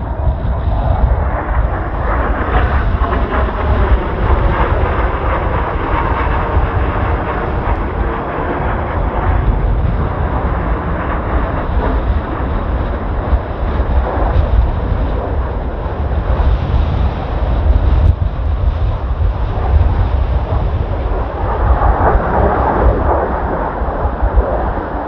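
Blue Impulse Kawasaki T-4 jet trainers flying past, their engine noise swelling and fading twice, with heavy wind buffeting the microphone throughout.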